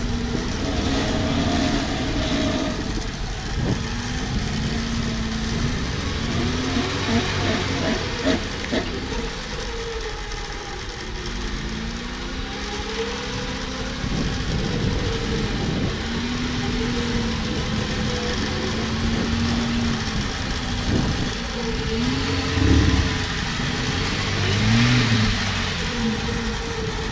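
Off-road 4x4's engine revving up and down again and again as it works over rough ground, pitch climbing and dropping every few seconds, with a heavy low thump a few seconds before the end.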